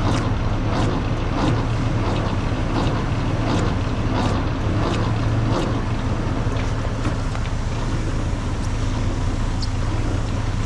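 Steady rushing hiss of air being blown out inside the warehouse, easily taken for air escaping from an air-ride trailer, over a low steady hum. A regular run of light ticks, about one every 0.7 seconds, sounds through the first half and then stops.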